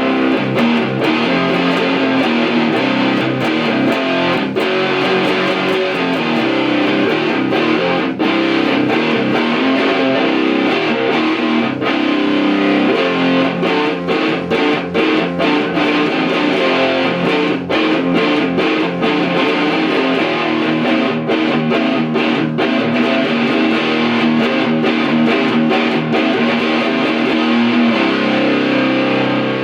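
Electric guitar played through an ART DST 8080 powered preamp on its Retro setting: an old-school, medium-gain distortion that sounds Marshall-like, with a busy run of picked notes and chords and a held chord near the end.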